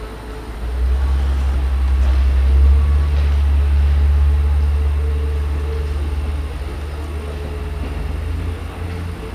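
Regional diesel multiple unit moving through the station, its engines giving a deep rumble that swells about a second in and then slowly eases off, with a steady whine over it.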